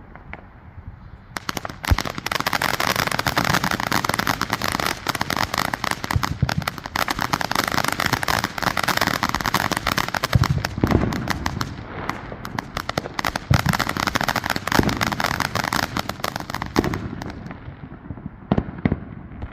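Fireworks going off: a dense, rapid crackle of pops that starts about a second and a half in and runs for about fifteen seconds, with a few deeper thumps, then dies away near the end.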